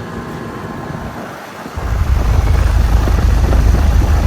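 Air-conditioner condenser unit running, its fan and compressor making a steady, kind of loud whir. About two seconds in, a heavy low rumble comes in and stays, like the fan's air blast hitting the microphone.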